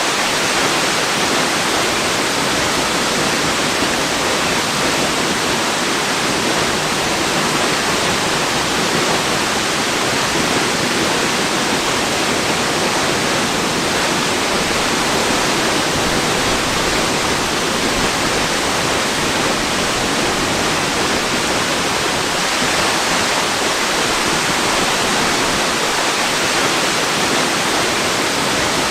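Waterfall, a steady, unbroken rush of falling water spread evenly from low to high pitches, used as white noise.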